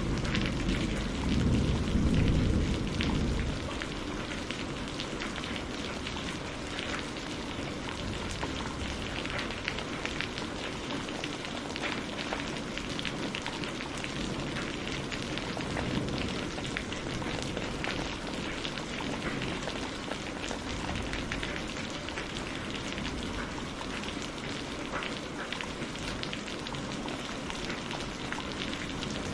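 Steady heavy rain falling, with many fine drop patters. The tail of a thunder rumble dies away in the first three or so seconds.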